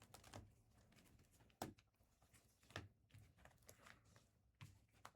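Near silence with a few faint, soft taps and rustles of trading cards and wrappers being handled.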